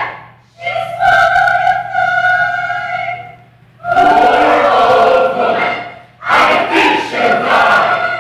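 A chorus of voices singing together in three long phrases of held notes, each separated by a short breath.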